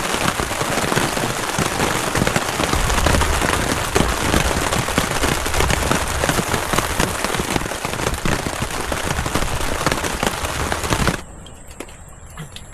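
Heavy rain falling hard on a plastic-sheet shelter, a dense crackle of drops. It cuts off abruptly about eleven seconds in, leaving a much quieter scene with only faint ticks.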